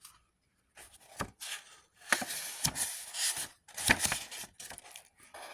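Cards and paper being handled: irregular rustling broken by a few sharp knocks on a hard surface, the loudest about a second in, midway and near four seconds.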